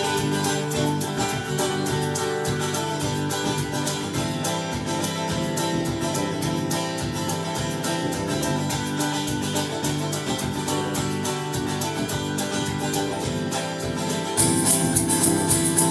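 Instrumental break of a country song: acoustic guitars strumming and picking in a steady rhythm, with a brighter burst of strumming near the end.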